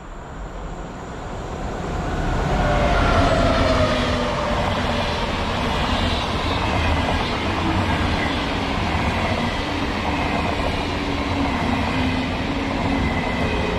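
A Deutsche Bahn ICE high-speed electric train approaches and passes at speed. The rushing of wheels on rail swells over the first few seconds, then stays loud as the coaches go by, with faint tones gliding slowly down.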